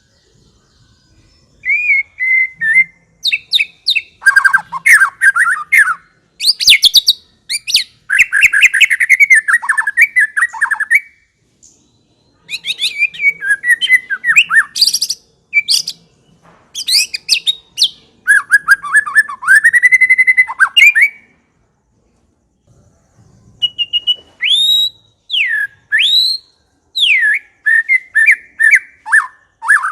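White-rumped shama (murai batu) singing in loud bursts of varied whistled phrases, swooping notes and rapid chattering runs, broken by two short pauses.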